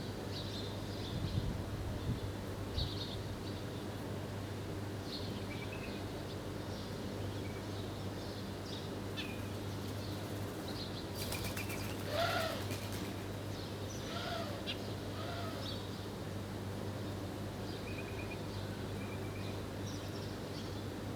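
Birds chirping now and then, with a brief flurry of wing flaps about eleven seconds in and a few short, lower calls just after, over a steady low hum.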